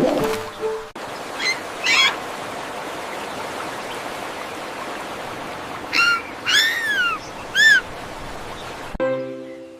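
A bird calling: a few short calls, then several louder calls that rise and fall in pitch about six to eight seconds in, over a steady rushing background noise.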